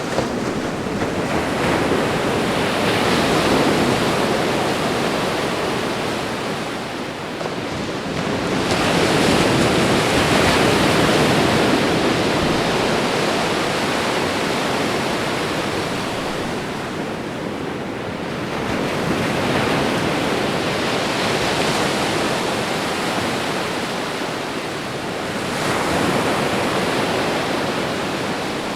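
Ocean waves breaking and washing on a shore, a steady hiss that swells and eases in slow surges several seconds apart.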